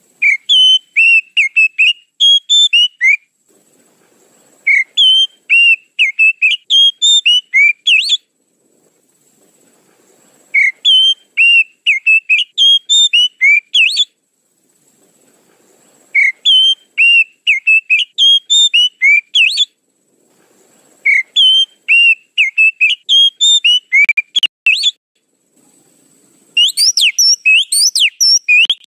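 Oriental magpie-robin (kacer) lure call: phrases of quick, high whistled notes, each about three seconds long, repeating every five to six seconds, with a denser, faster run near the end.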